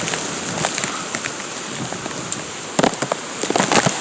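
Heavy storm rain falling and pattering on surfaces. About three seconds in comes a quick run of louder sharp taps and knocks.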